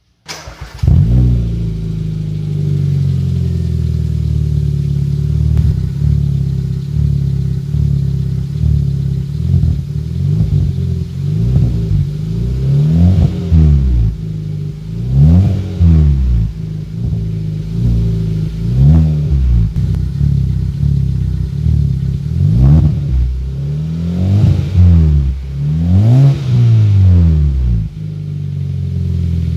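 Car engine breathing through an aftermarket HKS-style chrome muffler. It starts about half a second in and idles, then is revved in a string of short blips, each rising and falling, through the second half, and settles back to idle near the end. The exhaust note is deep and bassy.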